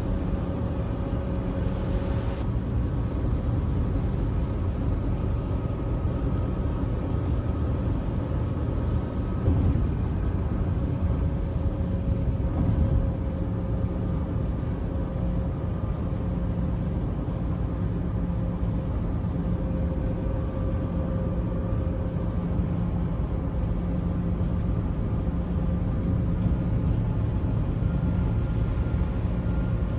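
Steady rumble of a moving vehicle, road and engine noise with a few faint humming tones running through it.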